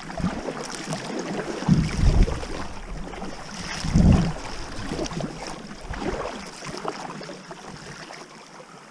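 Water lapping and splashing around a kayak, with low thumps at about two and four seconds in, dying down near the end. Light wind on the microphone.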